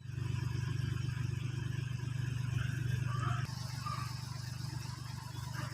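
Tata LPT 1613 truck's diesel engine idling steadily with a fast, even pulse. It drops a little in level about three and a half seconds in.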